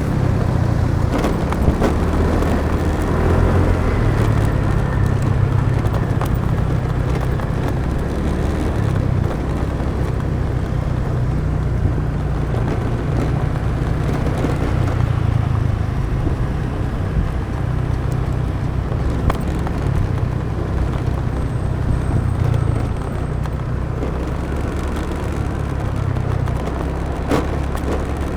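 Motorbike engine running steadily while riding, with a low rumble and road noise throughout and a few brief clicks.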